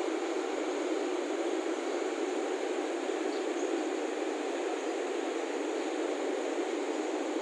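Electric motor of a lubrication oil pump running steadily: an even, unchanging machine noise with no knocks or changes in pitch.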